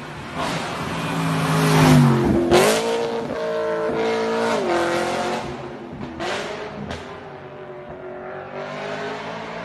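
BMW E90 M3's 4.0-litre V8 at high revs as the car drives hard past: the engine note climbs, then drops in pitch as it goes by about two seconds in. It pulls away with the revs rising and falling through a gear change, with a couple of sharp cracks, and fades into the distance.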